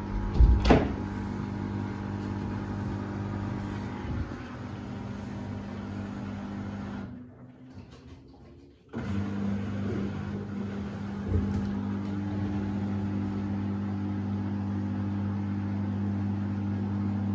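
Samsung washer-dryer running with a steady motor hum, with a loud knock near the start. The hum cuts out for about two seconds partway through, then starts again and runs steadily.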